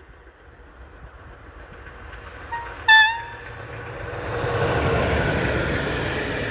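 DB class 111 electric locomotive sounding its horn in one short blast about three seconds in, just after a faint brief note. Then the locomotive and its passenger coaches pass close by, and the rumble of wheels on the rails swells from about four seconds in and stays loud.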